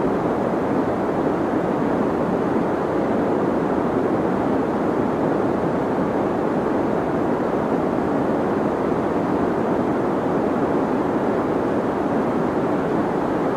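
Deep white noise for sleep: a steady, muffled rushing hiss with its weight in the low and middle range and little treble, unchanging and without any separate sounds in it.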